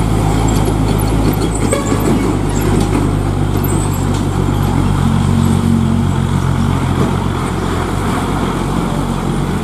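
Heavily loaded three-axle tronton truck's diesel engine running steadily, a low engine drone with road noise.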